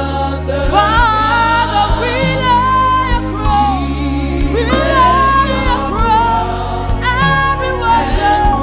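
Live gospel worship music: voices singing a slow praise song with wavering held notes, over sustained low bass notes and a regular drum beat.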